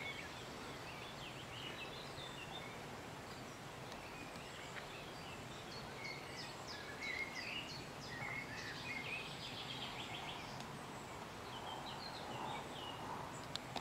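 A nightingale singing: a run of varied phrases of whistles, chirps and fast repeated notes, heard fairly faint over a steady background hiss.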